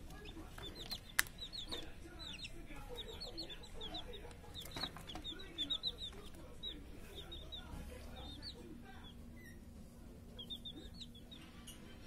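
Birds calling: low clucking calls mixed with many quick, high chirps in short runs, with one sharp click about a second in.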